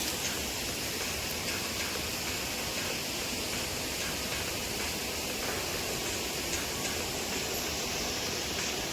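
Creek waterfall rushing and splashing steadily.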